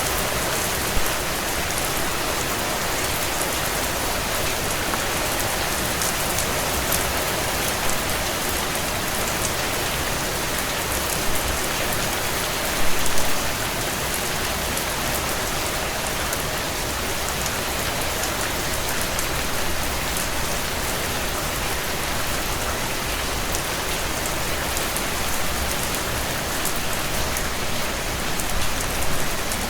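Heavy rain falling steadily on a tin roof: a dense, even hiss with single drops ticking through it and a few brief louder patters, the largest a short cluster about halfway through.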